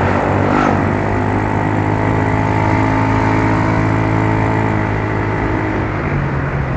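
Yamaha Mio Soul scooter's single-cylinder four-stroke engine running at a steady speed while riding, over road and traffic noise, with a brief shift in pitch near the start.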